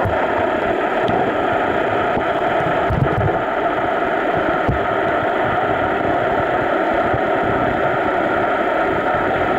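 Steady rush of water at a waterfall: a dense, even noise with a few faint low thumps.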